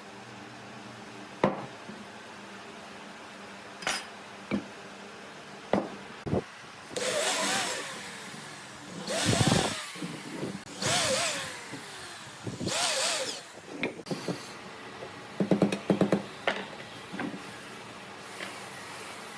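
Hand work on wood: a few sharp knocks, then four strokes of about a second each like a saw or rasp being drawn across wood, then a quick run of light taps.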